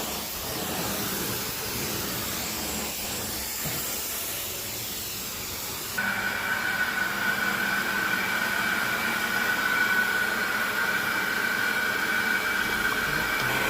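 Vacuum running steadily over carpet with a rushing hiss. About six seconds in it changes abruptly to a louder sound with a steady high-pitched whine.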